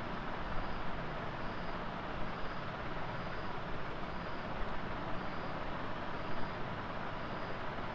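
Chopped potatoes, onions and tomatoes frying in oil in a kadhai: a steady sizzle, with the scrape and occasional knock of a steel spoon stirring them.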